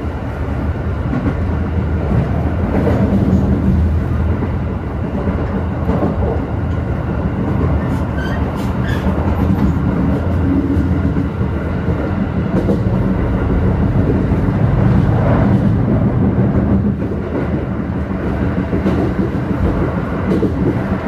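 Keikyu New 1000 series stainless-steel electric train with Toyo IGBT inverter drive running between stations, heard from inside the car. There is a steady low rumble of wheels on the rails, with short clicks from rail joints every few seconds.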